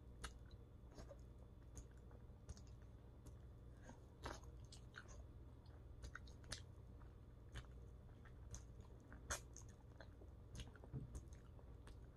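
Faint chewing, biting and lip-smacking as a sauced, bone-in chicken wing is eaten by hand and the meat is pulled off the bone with the teeth. The chewing comes as scattered short smacks and clicks over a low steady hum.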